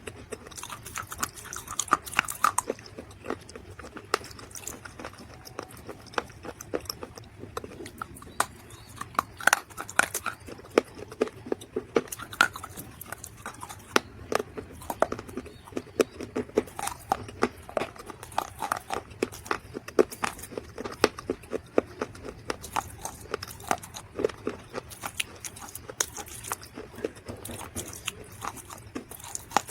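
Close-miked crunching of dried mud: a dense, irregular run of sharp crackles and snaps, with louder individual cracks scattered throughout.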